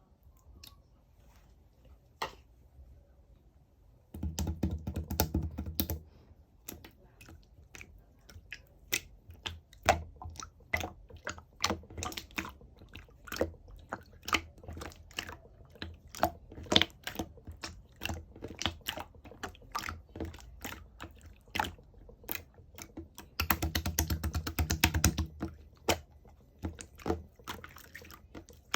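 Slime being worked by hand, giving a run of sharp clicking pops and wet squishes as it is poked, pressed and folded. Two stretches of rapid, dense crackling come about four seconds in and again near the end.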